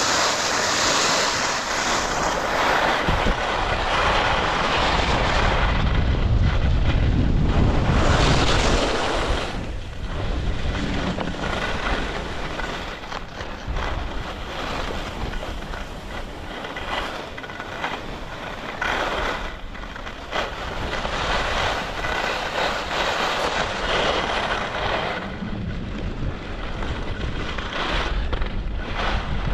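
Skis side-slipping down a groomed race course, the edges scraping and hissing over hard snow in surges that swell and fade, with wind buffeting the microphone, heaviest about six to nine seconds in.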